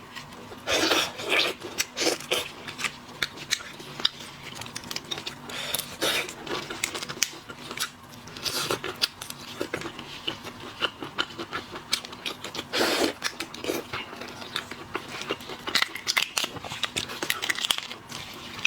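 Shellfish shells being cracked, torn and peeled by hand, with crunchy bites. This comes as a long run of irregular sharp cracks and clicks.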